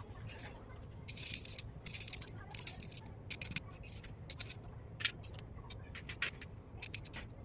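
Chalk crunching and crumbling in a string of short, crisp, irregular crunches, the longest about a second in.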